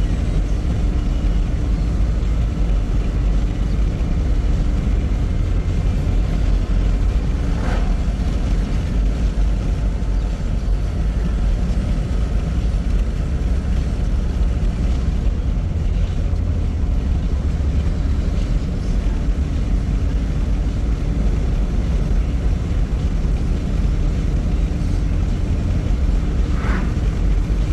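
A loaded freight grain train rolling past slowly: a steady low rumble with a steady hum, and a faint brief squeak or clank twice.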